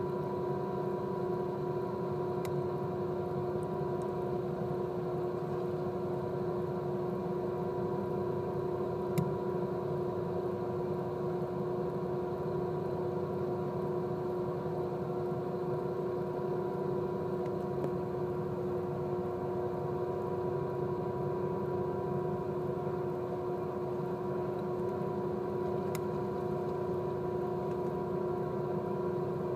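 Steady drone of a ship's engine and machinery: a constant hum with a strong steady tone, unchanging in level, with a few faint clicks.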